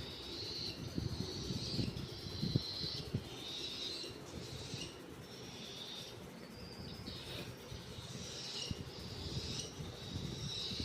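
Baby cockatiel's food-begging calls during hand-feeding: harsh, rasping calls repeated about once a second, easing off for a moment around the middle before picking up again.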